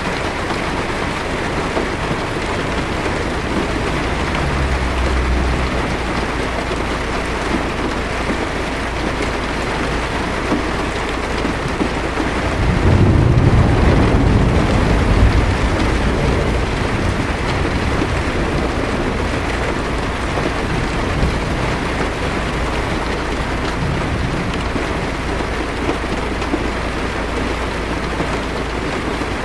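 Heavy rain falling steadily on a car's roof and windshield, heard from inside the car. About 13 seconds in, a low thunder rumble swells and fades away over a few seconds.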